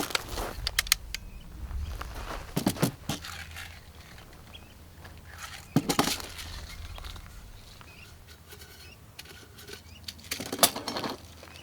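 Handling noise: scattered clicks, knocks and rustling in a few short clusters, with a quiet stretch between them.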